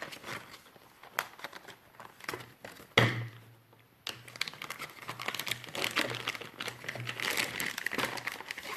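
Packaging crinkling and rustling as board-game components are unwrapped by hand. There are light scattered clicks at first, a sharp knock about three seconds in, and denser, steadier crinkling over the second half.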